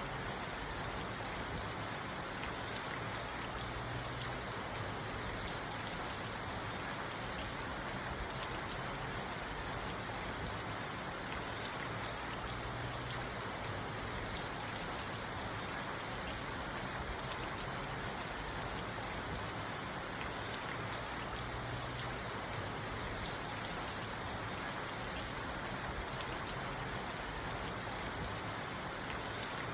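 Steady rain falling on a parked car's roof and windows, heard from inside the cabin.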